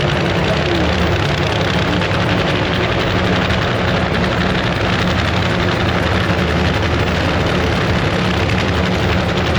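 Loud, steady engine noise from nitro drag-racing cars, without pause or change.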